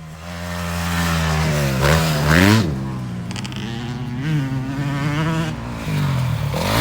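Motocross bike engine revving up and down through the gears, its pitch climbing sharply about two and a half seconds in and dropping again.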